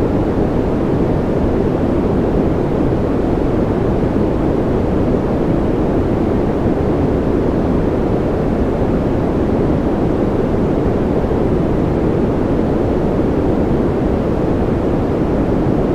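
Steady white noise for sleep: an even, unchanging hiss weighted toward the low and middle range, so it sounds deep rather than bright.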